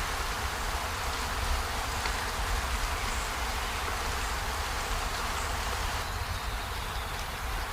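Steady rain falling, an even hiss with a low rumble beneath and a few faint drop ticks.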